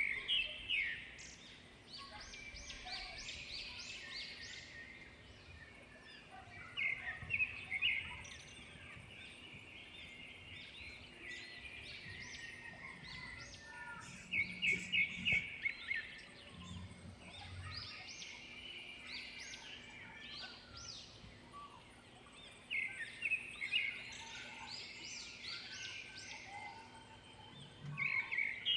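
Small birds chirping: bursts of quick, high chirps every several seconds, with softer scattered chirps between.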